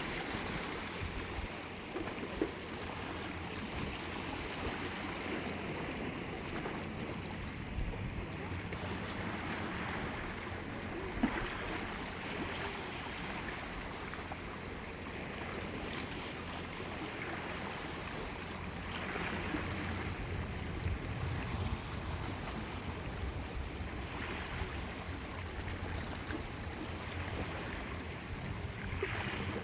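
Sea waves breaking and washing on the shore, a steady rush of surf that swells every few seconds. There are a couple of brief knocks.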